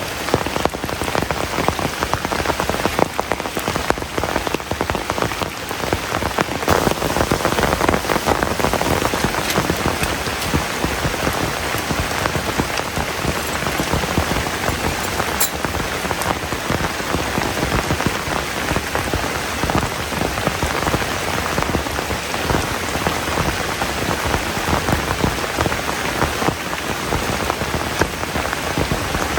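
Heavy rain falling steadily, a dense hiss full of individual drop hits, growing a little heavier about seven seconds in.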